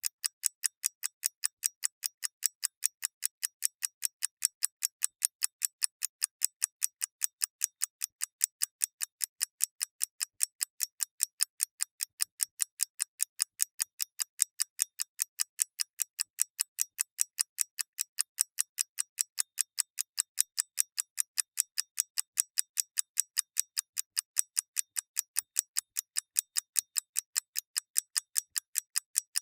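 Mechanical clockwork ticking in a steady, fast, even rhythm of several crisp, high ticks a second.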